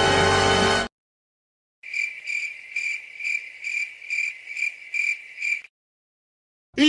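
Cricket chirping sound effect, the stock cue for an awkward silence: a high, even chirp repeating about three times a second for nearly four seconds. Before it, a music clip cuts off abruptly about a second in, and a short sliding sound begins right at the end.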